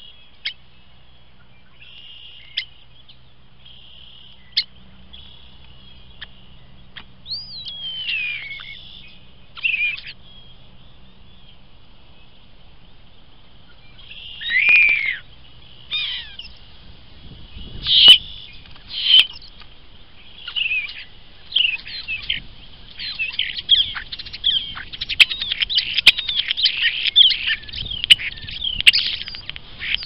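A bird perched right on the trail camera, calling close to the microphone: at first a few sharp clicks and whistled notes sliding downward, then, from about halfway, a fast and increasingly dense run of loud chattering, clicking and whistled notes.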